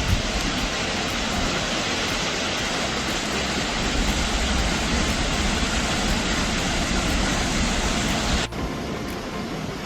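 Waterfall in spate, swollen by continuous rain: a loud, steady rush of falling water. About eight and a half seconds in it cuts abruptly to a slightly quieter rush.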